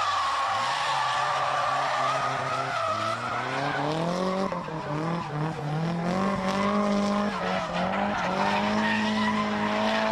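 Drift car engine revving hard through a slide, its pitch climbing and dropping several times, over tyre squeal.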